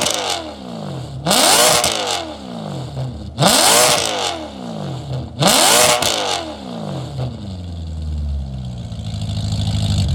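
Maserati Quattroporte engine through an EXHAUTECH valved aftermarket exhaust, revved in three quick blips about two seconds apart. Each rises to a high-pitched wail and falls straight back. It then settles to a steady idle, with a low hum building near the end.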